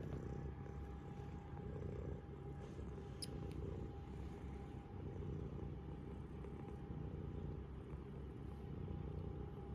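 Mother cat purring steadily, a continuous low rumble, over a faint steady hum.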